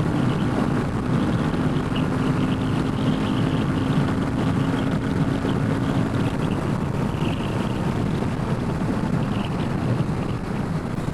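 Royal Enfield Himalayan 450's single-cylinder engine running under way, mixed with heavy wind rush on the microphone. A steady engine note holds for about six seconds, then sinks into the wind noise.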